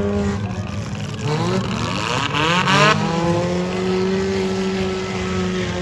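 Demolition derby car engines running steadily, with one engine revving up hard, rising in pitch, about a second and a half in, then settling back to a steady drone.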